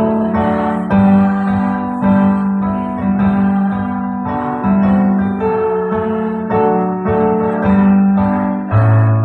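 Electronic keyboard playing held chords, a new chord roughly every second, with no voices singing.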